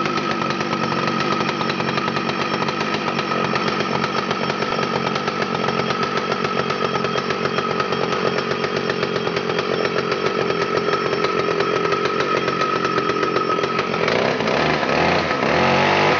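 A two-stroke chainsaw engine running steadily at speed. From about fourteen seconds in, its pitch starts wavering up and down.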